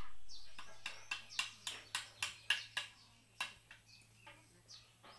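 A bird calling outdoors with a quick run of sharp chirps, about four a second, that tapers off about three seconds in, followed by a few fainter calls.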